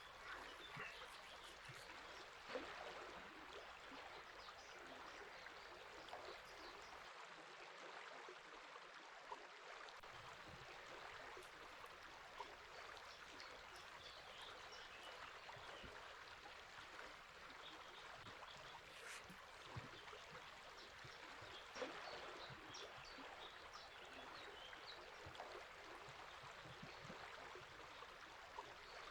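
River water flowing steadily, with small birds chirping faintly now and then.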